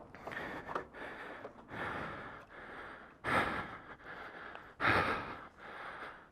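A person breathing heavily, with two loud sighing exhales a little past the middle.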